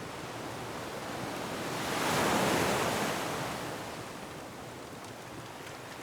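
Ocean waves surging against a rocky shore, one wave building to a crash about two seconds in and then washing away, over a steady hiss of surf and wind.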